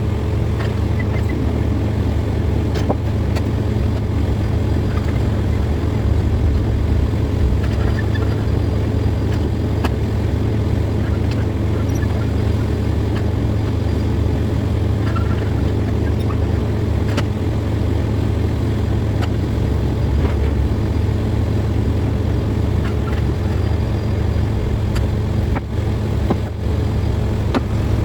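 Steady low hum of a running vehicle engine with a dense rumble over it and a few faint clicks.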